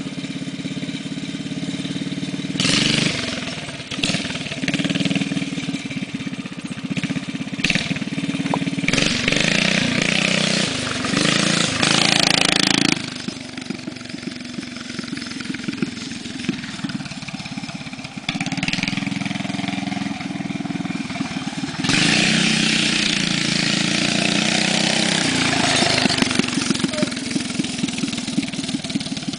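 Hotrod Manco minibike's 8 hp small engine, swapped in for the stock 3.5 hp, running and being revved up and down over and over. There are louder bursts of throttle a few seconds in, a long loud stretch from about nine to thirteen seconds, and loud running again through the last third.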